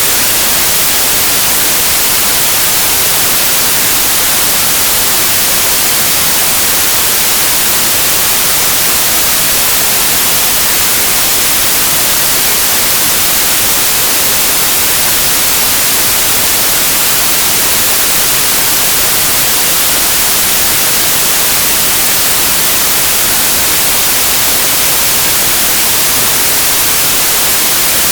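Steady, loud white noise: an even hiss with no changes.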